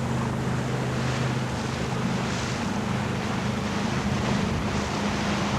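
Wind and sea noise aboard a sailing yacht under way: water rushing along the hull with gentle surges as the waves pass, and wind buffeting the microphone. A steady low hum runs underneath.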